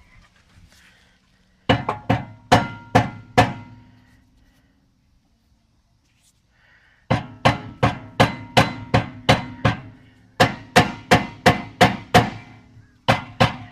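Rubber mallet striking a brake rotor to knock it loose from the wheel hub, each blow ringing briefly. A run of about six blows, then after a pause of about three seconds a longer run at roughly two blows a second, with two more near the end.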